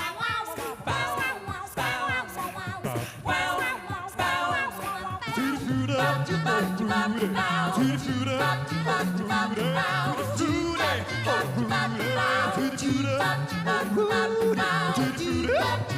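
Pop-style music with several voices singing; a stepping bass line comes in about five seconds in.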